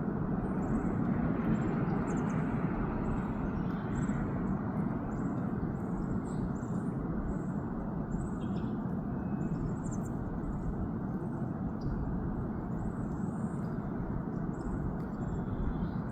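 Steady low outdoor rumble, like distant traffic, with many short, high-pitched chirps scattered through it.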